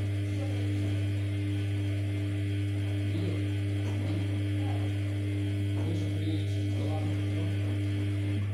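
Steady low electrical hum at mains frequency, with faint background voices in the middle.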